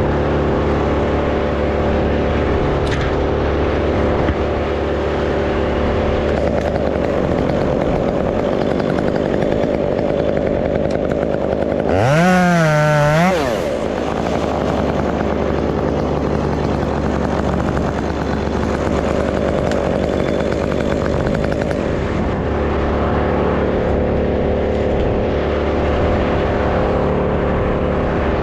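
Stihl MS 201 two-stroke top-handle chainsaw running, revved up sharply once for about a second and a half roughly twelve seconds in, over a steady engine drone.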